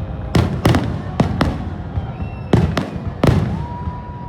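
Fireworks display: about seven sharp aerial shell bangs, several coming in quick pairs. A steady high whistle starts near the end.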